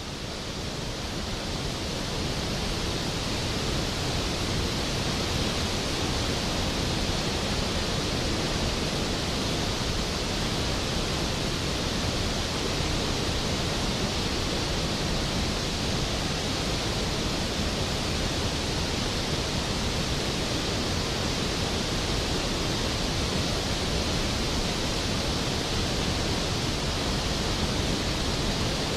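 Skógafoss waterfall's water pouring down in a steady, dense rush, fading in over the first few seconds and then holding even.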